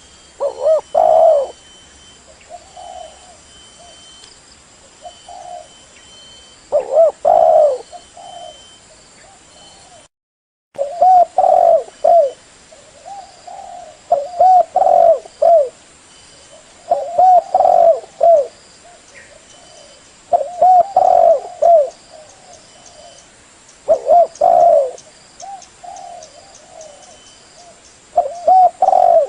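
Spotted dove (tekukur) cooing: loud coo phrases of several notes repeat every few seconds, with softer coos in between. The sound cuts out briefly about ten seconds in.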